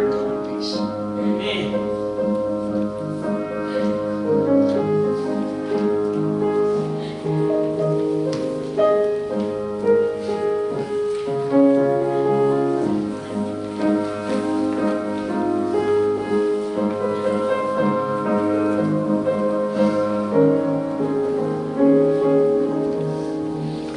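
Slow piano music with sustained chords and a melody line.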